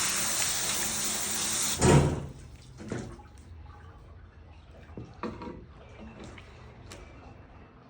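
Water running steadily, then cut off about two seconds in with a loud thump, followed by a few quieter knocks and clicks.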